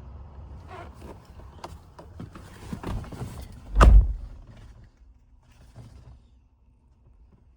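Clicks and rattles of handling, then a pickup truck door shut with one heavy thump about four seconds in; a low rumble underneath dies away after it.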